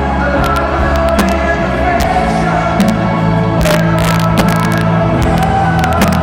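Loud live concert music over a PA system, with sustained bass notes, and many sharp bangs and crackles of fireworks scattered through it.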